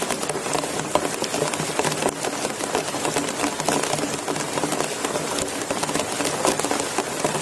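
Heavy rain falling steadily on a camp shelter, a dense patter of many separate drop hits at an even level.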